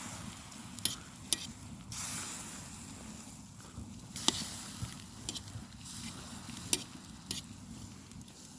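Ramen pot cooking over a wood fire: a steady hiss and sizzle with louder stretches, broken by several sharp clicks.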